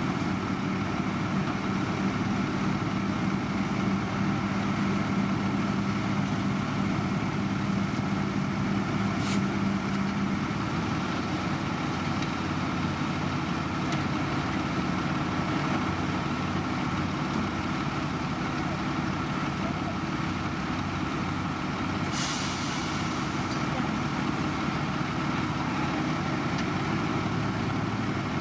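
Heavy diesel road-construction machinery running steadily, with a short hiss about 22 seconds in.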